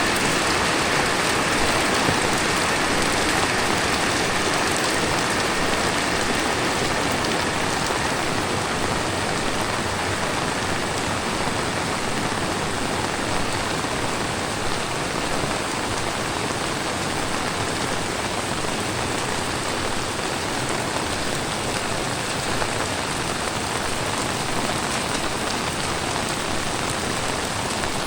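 Heavy tropical rain falling steadily on the ground and surrounding surfaces, a dense even hiss that eases slightly over the first several seconds.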